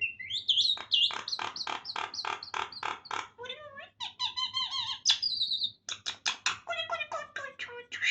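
Pet myna calling: a fast run of short, harsh chattering notes, about four or five a second, then a few pitched whistles in the middle, then more quick chattering near the end.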